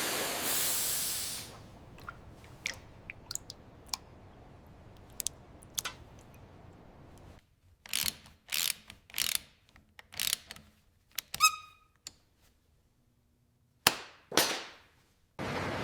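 Workshop handling sounds. A hiss at the start is followed by scattered small clicks, then a run of short noisy bursts and a metallic clink that rings briefly, with a steady hiss coming in near the end.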